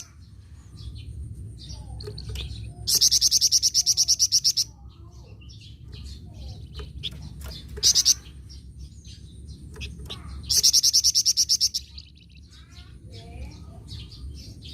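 A flamboyan songbird singing hard: loud, fast rattling trills of about a second and a half each, one around three seconds in and one near eleven seconds, a short burst around eight seconds, and softer chirps and twitters in between.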